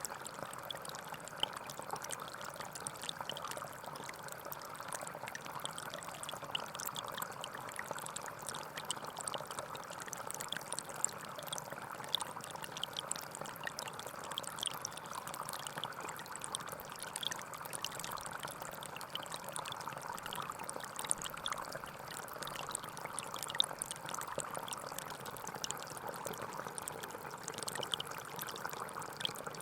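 A gentle forest stream flowing and trickling steadily: a continuous babble of water with many small, bright splashes all through it.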